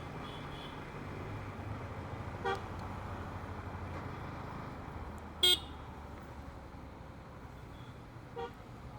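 Motorbike engine running steadily while riding in traffic, with three short horn beeps, the loudest about halfway through.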